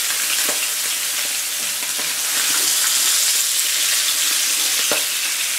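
Salmon fillets sizzling steadily in hot oil in a nonstick frying pan, with a few light clicks of a spatula against the pan as a fillet is turned.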